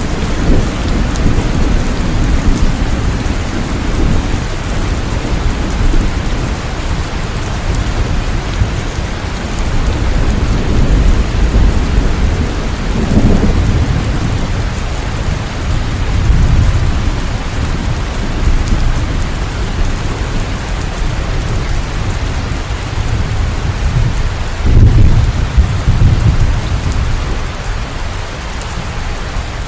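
Steady rain, with deep rumbles swelling and fading a few times, the strongest about 25 seconds in.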